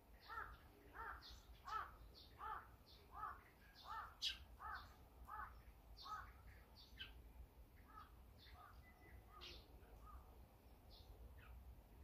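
Wild birds calling faintly: a run of about ten harsh, arched calls, one every 0.7 seconds or so, that stops about seven seconds in, with thin high chirps scattered around them.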